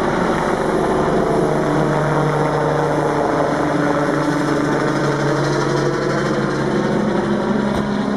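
Rescue helicopter's turbine and rotor running loud and steady with a low hum as it takes off.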